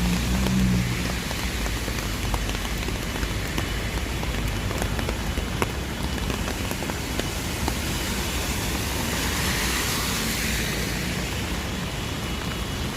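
Steady rain falling, with many small drop ticks close by. A louder hiss swells and fades about ten seconds in.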